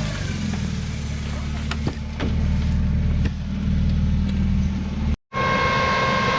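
Off-road vehicle engine running steadily at low revs, with a few sharp knocks over it. Near the end the sound cuts abruptly to an engine with a steady high whine.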